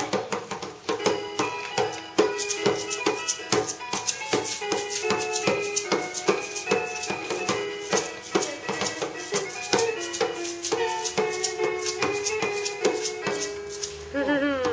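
A piano plays a melody of short notes while a shaker rattles along in quick, steady strokes.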